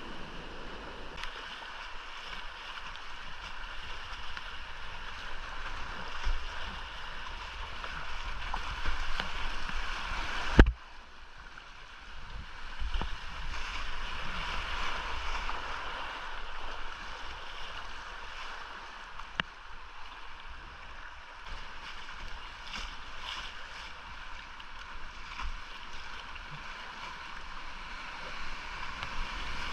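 Whitewater rushing steadily around a kayak on a steep creek, with a low rumble underneath. About ten seconds in there is one sharp, loud knock, after which the water noise drops abruptly and then builds again.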